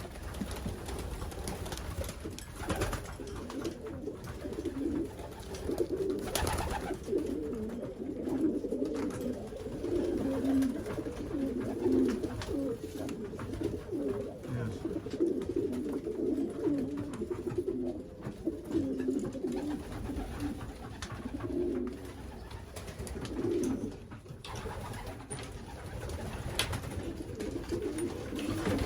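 Racing pigeons cooing in a small loft, many birds overlapping in a continuous low warbling chorus, with a few brief knocks.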